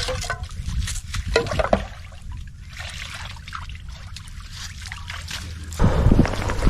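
Water trickling and splashing from a sea kayak's paddle strokes, with short scattered splashes over a low steady rumble. Near the end a louder rush of wind and water sets in suddenly.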